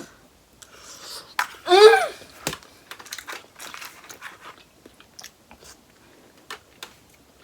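Close-miked chewing of seafood in a mukbang: many short wet mouth clicks and smacks, with one brief pitched hum of enjoyment about two seconds in.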